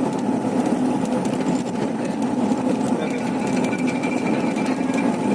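Truck engine running under way, with a fast, steady rattle.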